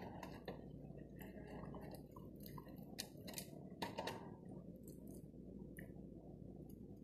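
Faint chewing of crispy fried chicken: scattered short crunches and mouth clicks, a few each second.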